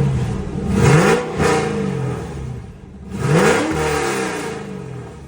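Cadillac CTS-V wagon's supercharged 6.2-litre V8, fitted with an aftermarket cam and long-tube headers without catalytic converters, free-revved from idle in short throttle blips, the pitch rising quickly and falling back each time, the last blip about three seconds in before it settles toward idle.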